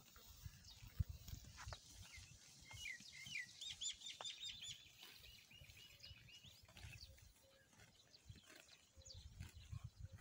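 A small bird singing a run of quick repeated chirps, busiest from a couple of seconds in to about the middle, over a faint low rumble and a few soft clicks, with one sharper click about a second in.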